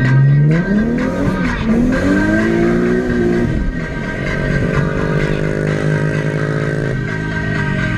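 Nissan 370Z's V6 engine revving hard: it climbs in pitch over the first few seconds, holds high and steady, then drops suddenly about seven seconds in as the throttle is let off or a gear is changed. Background music plays faintly underneath.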